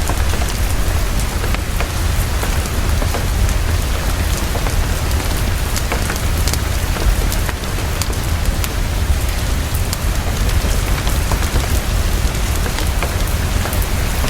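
Heavy, fast, steady rainfall with a steady low rumble beneath it, dotted with scattered sharp crackles of a wood fire in a fireplace.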